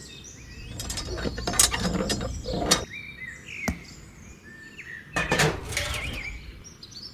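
Irregular scraping and clicking of small handwork, with one sharp click near the middle, over short bird chirps.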